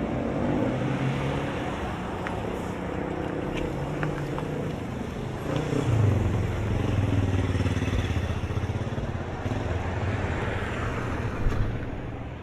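Street traffic: a motor vehicle engine running close by, louder from about halfway through and fading near the end.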